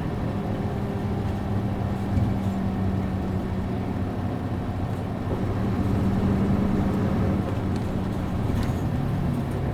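Isuzu Erga city bus's MD92TJ six-cylinder turbo-diesel idling steadily, heard from inside the bus, with a slight swell in engine sound about six seconds in.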